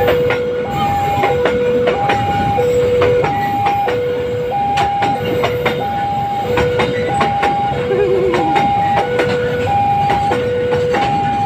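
A long freight train of flat wagons rolls past close by with a steady rumble and repeated wheel clicks over the rail joints. Over it, the level-crossing warning alarm sounds a continuous alternating high-low two-tone signal, changing tone about every two-thirds of a second.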